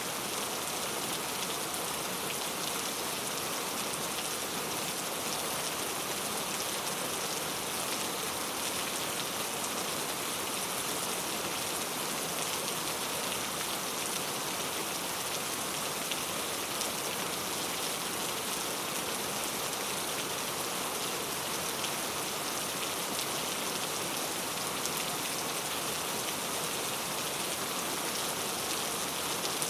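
Heavy rain falling steadily: a dense, even hiss with a fine patter of individual drops and no let-up.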